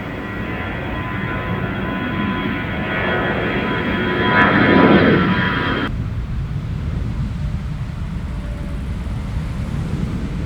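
Airliner's engines passing close by: a whine with steady high tones over a roar that swells to a peak about five seconds in, its pitch falling as it passes. The high whine cuts off abruptly about six seconds in, leaving a low rumble.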